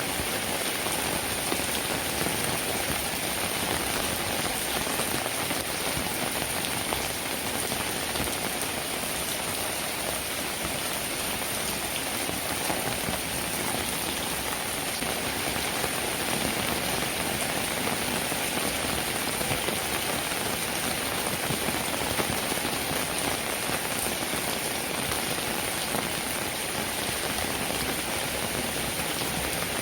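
Steady rain falling: an even, unbroken hiss of many raindrops.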